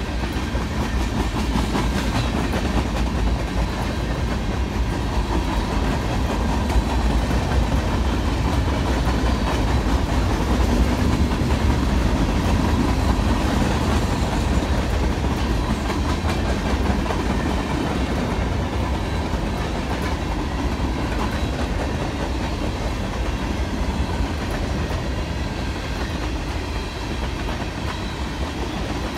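Freight train cars rolling past in a steady stream, their wheels clicking over the rail joints.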